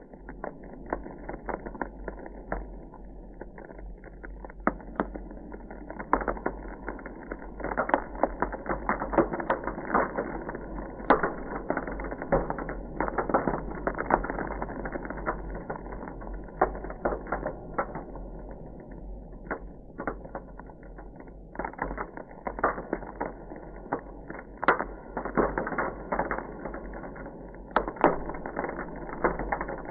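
Ice crackling: a dense, irregular run of small crackles and sharper pops over a steady low rumble.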